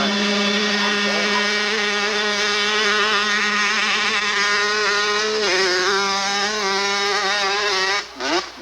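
Hillclimb motorcycle engine running hard at high, fairly steady revs, with a slight pitch shift about five and a half seconds in, before the sound drops away abruptly near the end.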